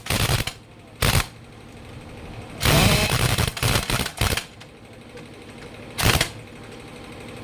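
Rapid mechanical rattling in four short bursts, the longest nearly two seconds.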